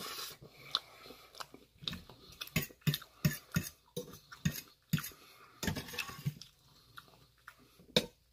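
A person chewing food, with a run of chewing sounds about three a second in the middle, and a metal fork clinking and scraping against a stainless steel bowl; one sharp clink near the end.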